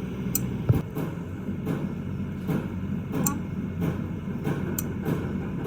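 Steady low machine hum with scattered sharp clicks and one louder knock about three-quarters of a second in.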